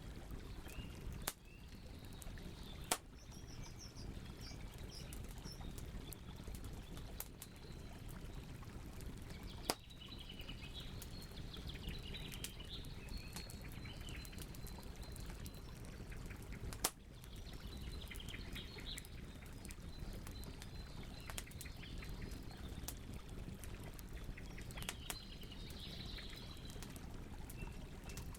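Campfire crackling, with sharp pops from burning wood, over a steady low rumble of the flames. Birds chirp and call at several points.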